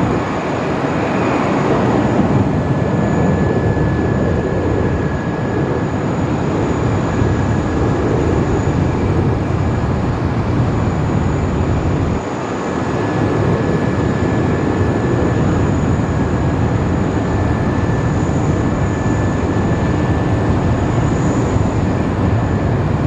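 Boeing 777X jet airliner's GE9X engines running, a loud steady noise with a thin high whine over it, dipping briefly about halfway through.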